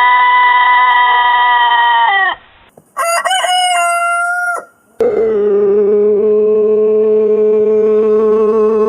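Roosters crowing in three separate crows: a long held crow that breaks off about two seconds in, a shorter crow with a rising start about three seconds in, and another long, drawn-out crow starting about five seconds in.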